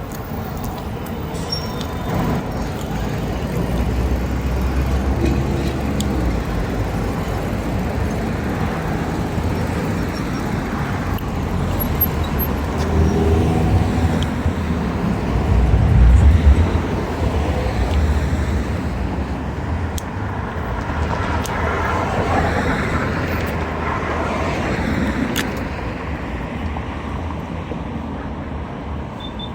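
Vehicle engine running with road and wind noise while riding in traffic, swelling to its loudest about halfway through.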